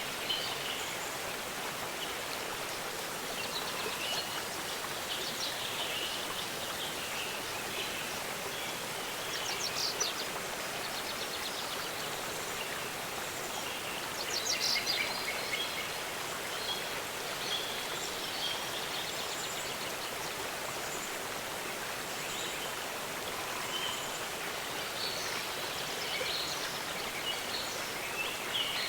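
Waterfall rushing steadily, with small birds chirping and trilling over it; rapid trills stand out about ten and fifteen seconds in.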